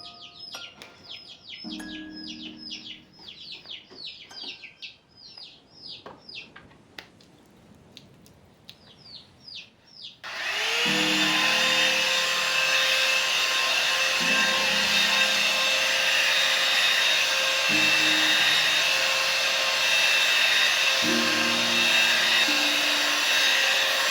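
Rapid, repeated high bird chirps, then about ten seconds in an electric motor appliance switches on abruptly. It spins up with a short rising whine and runs on as a loud, steady whirring hiss.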